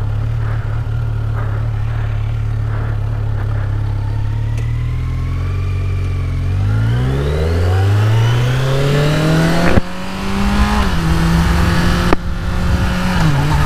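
2018 Kawasaki Z900's inline-four engine on its stock exhaust, idling steadily, then revving up as the bike pulls away. The sound breaks briefly at each upshift, about ten and twelve seconds in, then settles to a steady run.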